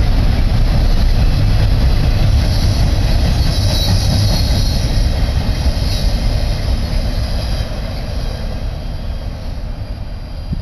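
Freight cars of a BNSF double-stack intermodal train rolling past close by: a heavy, steady rumble of wheels on rail, with a high wheel squeal over it for a few seconds in the middle. The sound fades over the last few seconds as the end of the train moves away.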